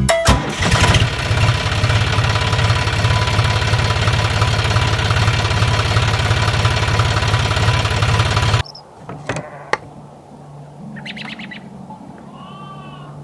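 An engine running with a rapid, even chugging, starting just after the music stops and cutting off abruptly about eight and a half seconds in. After it, a much quieter steady low hum, a few clicks, and a short chirp near the end.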